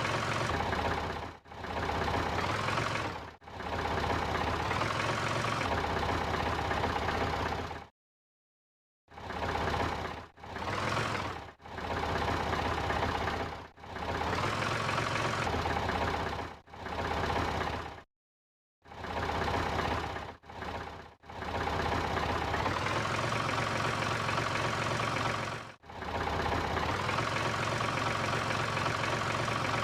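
Small engine of a Daewoo Labo kei truck running at a steady speed, heard in a series of short pieces broken by abrupt cuts and two brief dead-silent gaps. A few times the pitch steps up a little and holds, as the engine is revved slightly.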